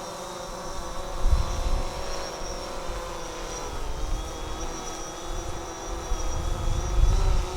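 DJI Phantom 4 quadcopter's propellers and motors humming steadily in a hover, the pitch wavering slightly as the motors correct. Wind buffets the microphone with low rumbling gusts about a second in and again near the end.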